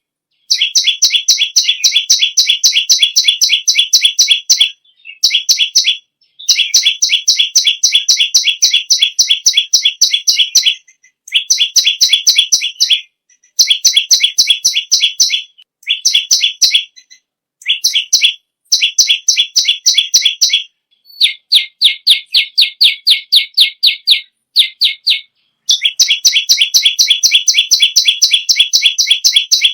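A perenjak lumut sings in loud runs of rapid, sharp repeated notes, about seven a second, broken by brief pauses. About three-quarters of the way through, the notes turn lower and more spaced for a few seconds before the fast runs resume.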